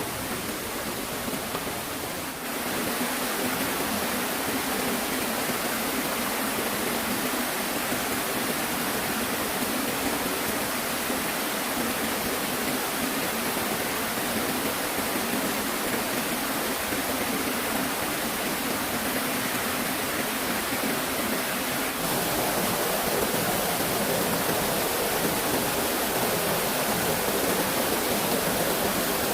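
Steady rush of flowing stream water, with the level stepping up slightly about two seconds in and again about three quarters of the way through.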